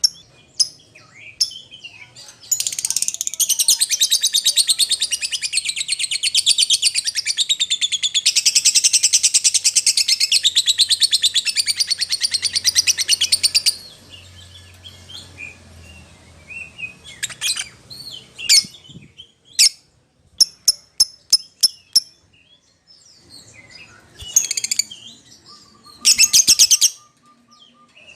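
Lovebird calling: a long, loud, rapid chattering trill lasting about eleven seconds, then a string of sharp, shrill chirps and two short chattering bursts near the end.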